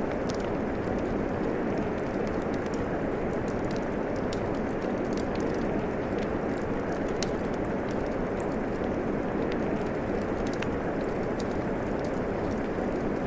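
Steady rain hiss blended with a crackling wood fire, scattered sharp little pops sounding irregularly over the even wash of rainfall.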